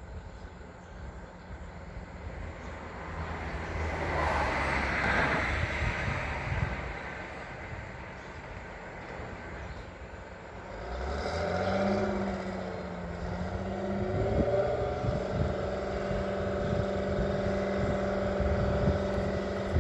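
Drill rig truck's engine running, picking up to a steady higher speed about eleven seconds in and holding there. A swell of rushing noise rises and fades a few seconds in.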